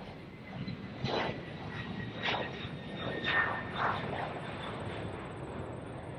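Airliner engine noise at the airport: a steady rumble with a faint whine, and several short louder surges between about one and four and a half seconds in.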